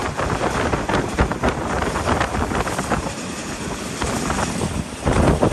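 Passenger train running at speed, heard at an open carriage window: air rushing over the microphone and the running gear rattling with irregular knocks, louder near the end.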